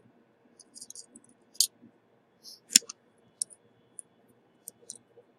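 Scattered sharp, light clicks and taps of small metal hand tools such as tweezers at the repair bench, irregularly spaced, with one louder knock a little under three seconds in.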